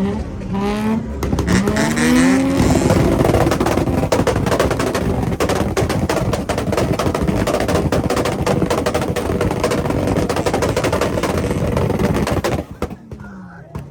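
A car engine revs up in rising sweeps, then is held against a rev limiter, likely a two-step launch limiter, with a rapid machine-gun string of exhaust pops and bangs for about ten seconds. It cuts off suddenly near the end.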